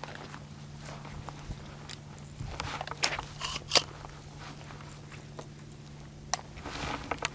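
Footsteps crunching on dry ground, with a few sharp clicks in between, over a steady low hum.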